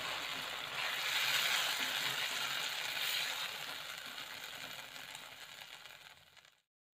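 Eggplant and tofu in tomato sauce sizzling in a wok as a spatula stirs it, the sizzle fading steadily with the stove just turned off, until it cuts off near the end.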